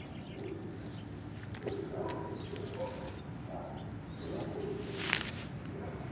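Chihuahua puppies whimpering in short, soft whines, one after another, with a sharp click about five seconds in.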